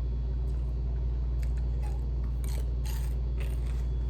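Crunchy chewing of crispy refried chicken gizzards close to the microphone, half a dozen crackly crunches over a few seconds, over a steady low hum.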